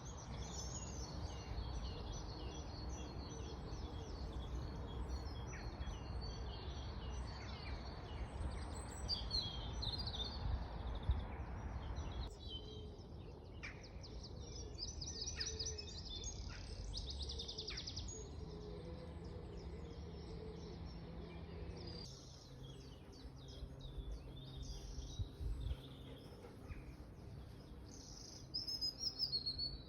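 Several songbirds singing and chirping, with a quick trill of rapidly repeated notes around the middle, over a steady low outdoor rumble. The background noise changes abruptly twice, and a faint low hum comes in during the second half.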